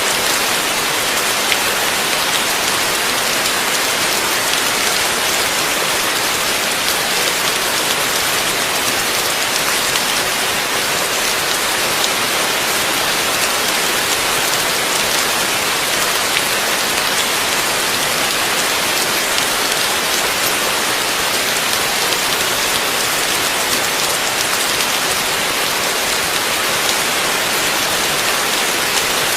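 Heavy rain falling steadily, a dense even hiss of drops on surfaces with fine pattering ticks throughout.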